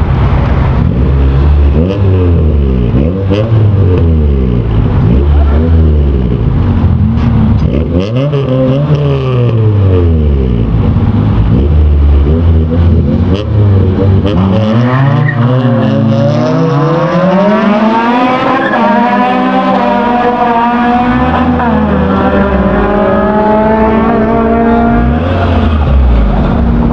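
Car engines at a street race, revved repeatedly with quick throttle blips for the first half, then one engine pulls hard under full acceleration, its pitch climbing in a series of steps as it shifts up through the gears.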